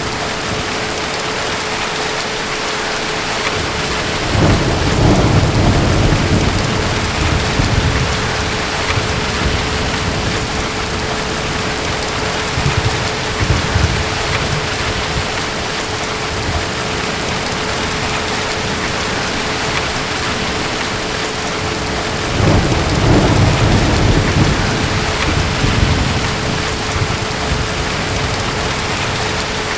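Steady heavy rain with distant thunder rolling twice, once about four seconds in and again about two-thirds of the way through, each roll lasting a few seconds.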